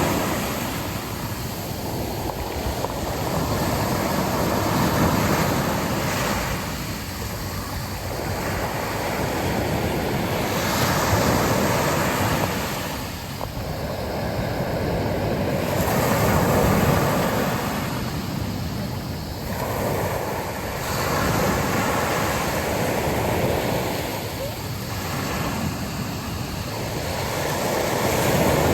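Sea waves breaking and washing on a beach, the surf swelling and ebbing about every five or six seconds, with wind blowing on the microphone.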